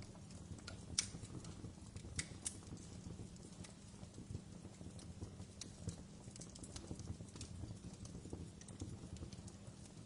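Wood fire crackling in a fireplace: irregular sharp pops and snaps over a low, steady rumble, the loudest pop about a second in.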